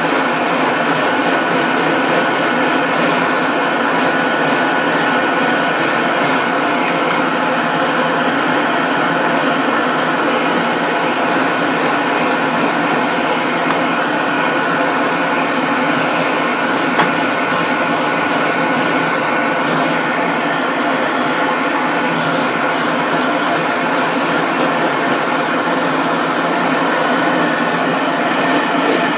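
A grooming dryer's blower motor runs steadily, a constant rushing of air with a faint high whine over it.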